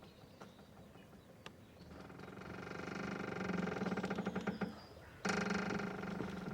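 Boat mooring rope creaking under strain as the moored boat shifts: a long, groaning squeak swells up about two seconds in and fades, then a second, louder one starts suddenly about five seconds in. A few faint ticks come before them.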